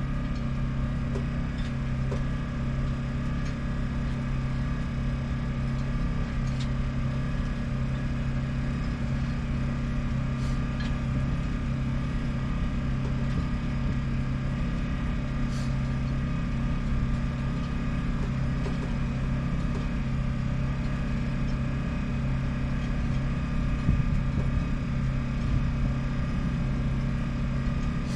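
A motor running steadily with a constant, even hum that neither rises nor falls.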